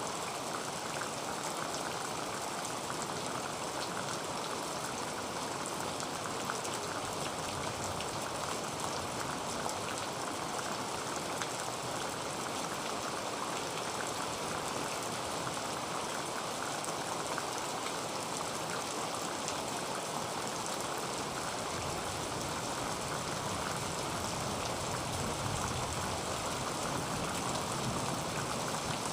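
Heavy rain falling on a tin roof, a steady, dense patter of drops.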